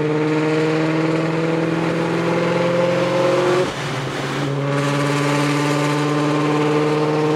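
Car engine pulling hard under acceleration, its pitch climbing steadily. About three and a half seconds in it drops briefly for an upshift, then climbs again.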